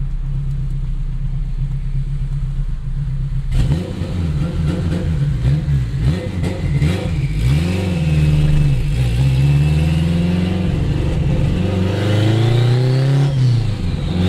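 Straight-piped, turbocharged Honda K-series four-cylinder (K24/K20) idling steadily, then pulling away about three and a half seconds in, its revs climbing and dropping repeatedly through gear changes. A thin whistle rises and falls with the revs near the end.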